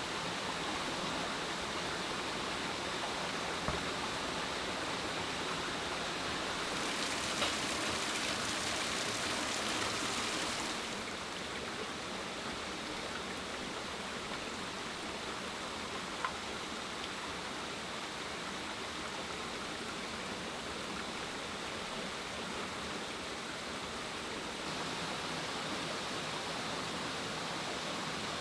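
Steady rushing hiss that grows brighter and louder for about four seconds early in the middle, with a few faint single clicks.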